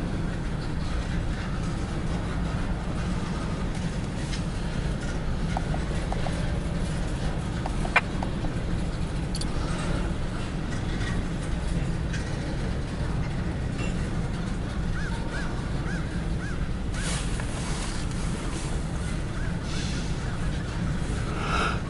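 Steady low rumble of a departing empty freight train's cars rolling past, with a single sharp click about eight seconds in.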